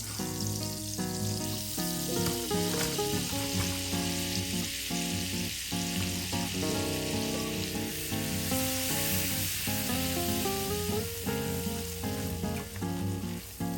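Food sizzling and frying in a pan, a steady crackling hiss, under background music with plucked melodic notes.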